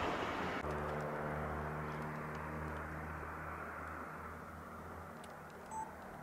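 A train moving away down the line. Its rushing noise stops about half a second in, leaving a low hum with a set of steady tones that slowly fades. There is a short high chirp near the end.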